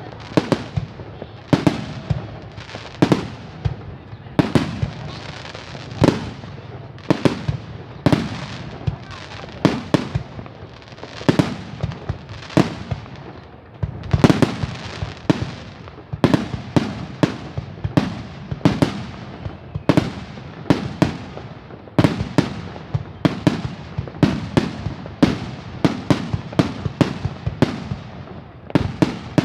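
Aerial fireworks shells bursting one after another, about one to two bangs a second, each followed by a short rumbling tail.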